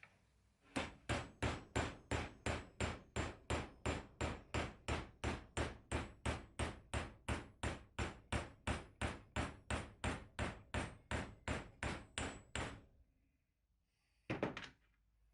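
Hammer blows on metal in a steady rhythm of about three strikes a second, each with a faint high ring. The run stops suddenly, and a quick couple of blows follow near the end.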